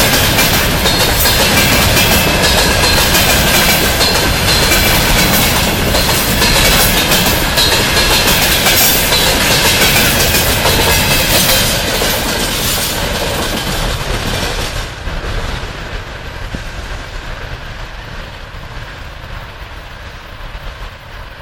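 Container flatcars of a freight train rolling past close by, wheels clattering over the rail joints. Once the last wagon has passed, about two-thirds of the way in, the noise drops sharply and fades as the train moves away.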